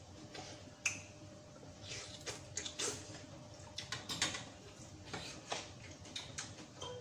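Spoons and forks clinking and scraping against ceramic bowls and plates while eating: scattered light clicks, with one sharper ringing tap about a second in.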